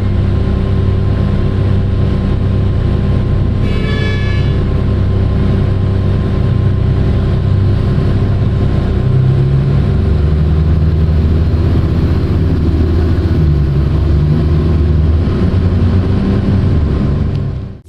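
Large diesel engine of heavy mining equipment running steadily, its note shifting about halfway through. A brief high tone, like a horn, sounds about four seconds in.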